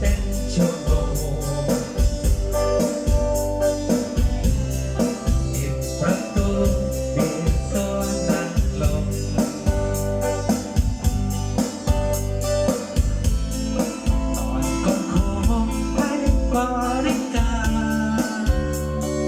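Music with singing and keyboard over a heavy, pulsing bass beat, played loud through an outdoor PA system with subwoofer and line-array cabinets being warmed up and checked.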